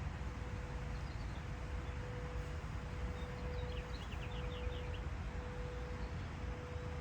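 A small bird gives a brief run of quick, high chirping notes a few seconds in, over a steady low rumble of outdoor background noise and a faint steady hum.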